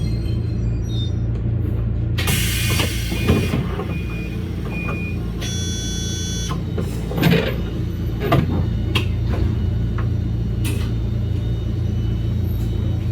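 Electric train running along the track with a steady low rumble. About two seconds in there is a hiss lasting a second or so with a few short beeps, a held tone sounds briefly around the middle, and there are several sharp knocks from the wheels.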